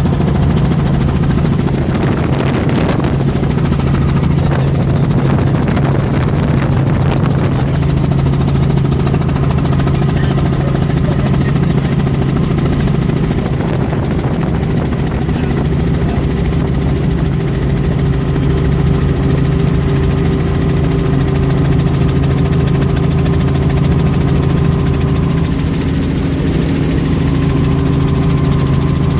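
Helicopter engine and rotor running steadily, a constant low drone with a strong hum.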